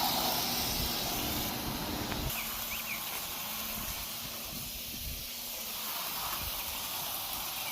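Water spraying onto house siding with a steady hiss, as the mildew-rinse solution is applied; a low hum underneath stops about two seconds in.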